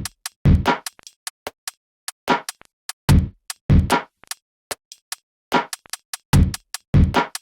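A programmed drum-machine beat from music software: deep kicks in pairs about every three seconds, a brighter snare-like hit between each pair, and short hi-hat ticks in between, with no melody.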